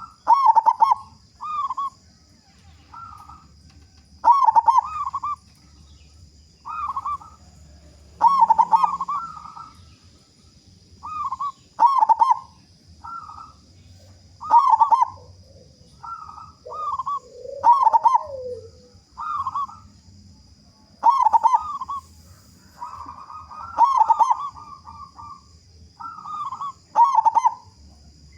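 Zebra dove (perkutut) singing: repeated phrases of quick cooing notes, the loudest returning about every three to four seconds.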